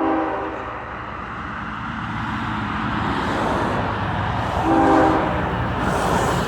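CSX freight locomotives running light with no cars, their engine and wheel-on-rail noise building as they approach. The locomotive horn sounds two short blasts, one right at the start and another about five seconds in.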